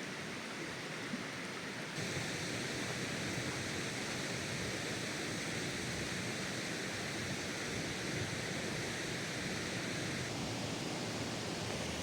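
Rushing stream water, a steady even rush that gets a little louder about two seconds in and changes character again near the end.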